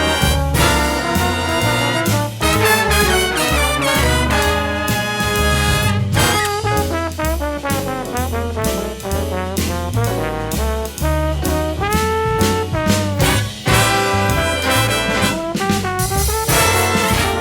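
Big band jazz with trombones and trumpets playing ensemble lines over a walking bass and drums.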